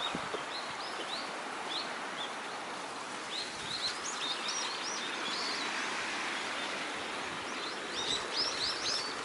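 Small birds chirping in short high calls, in a flurry a few seconds in and again near the end, over a steady outdoor background hiss.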